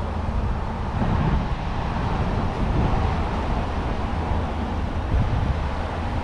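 Steady low rumbling outdoor noise that rises and falls in level, with no distinct events.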